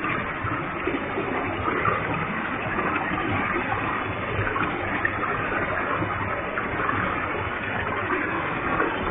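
Waterfall with a heavy flow of water, a steady, even rush of falling water and spray.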